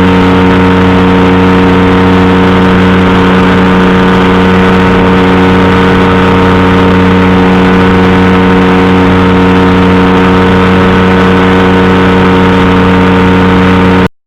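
Powered parachute's engine and propeller running loudly at a steady, unchanging speed. The sound cuts off abruptly near the end.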